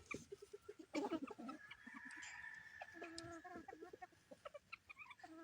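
Chickens clucking with many short, quick calls, and one longer steady call about two seconds in.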